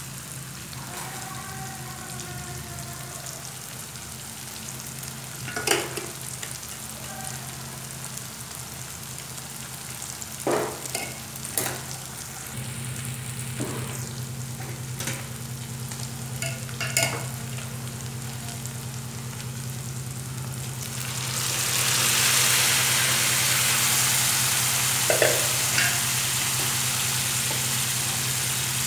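Paneer cubes frying in oil in a nonstick wok, a steady sizzle over a low hum, with a few knocks and scrapes of a spatula against the pan. About three-quarters of the way through, the sizzling becomes much louder and brighter.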